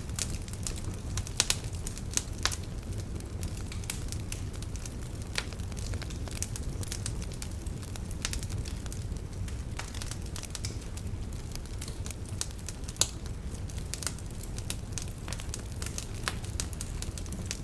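Wood fire burning in a fireplace: a steady low rumble of the flames with irregular crackles and snaps from the burning logs, a few louder pops among them.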